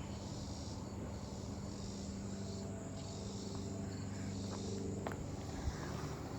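Insects chirping steadily in a high, shimmering hiss that swells and fades, over a steady low hum.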